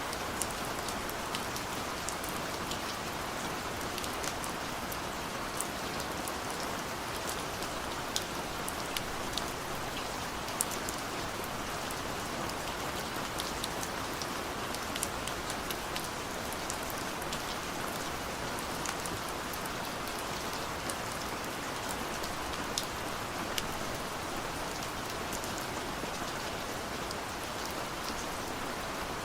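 Steady rain falling, a constant even hiss with many scattered sharp taps of individual drops striking a surface.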